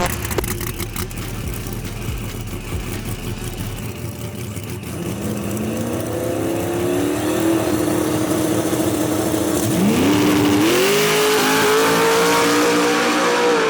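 Drag race car engine accelerating hard. After a few seconds of crackling, the engine pitch climbs and holds, drops sharply about ten seconds in as it shifts gear, then climbs again and holds at a higher pitch, loudest near the end.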